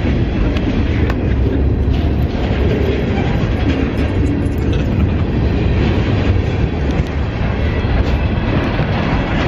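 Freight train of open-top hopper cars rolling past at close range, heard from ground level right beside the track: a steady, loud rumble of steel wheels on rail with a few faint clicks.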